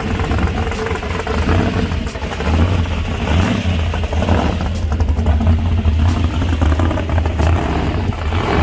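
A loud vehicle engine running with a deep, steady rumble that swells and eases slightly, with some rattling.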